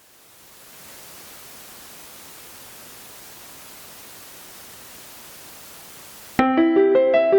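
Steady hiss of line noise from an electronic keyboard wired directly into a camera's audio input, rising in over the first second while the instrument is silent. About six seconds in, the keyboard's automatic piano playback starts abruptly with a quick run of repeating notes.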